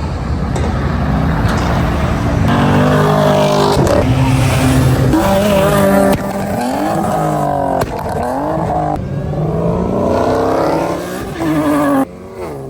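Car engines revving and accelerating, their pitch rising and falling, in a string of short clips that change abruptly every few seconds.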